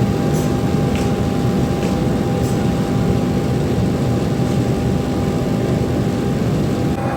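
Steady factory machinery noise: a continuous low rumble with a constant humming tone above it and a few faint ticks in the first seconds.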